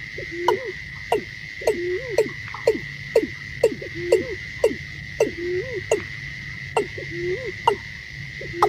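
Watercock calling repeatedly, about two notes a second: each a sharp downward stroke dropping into a low, hollow looping note. A steady high-pitched whine runs behind the calls.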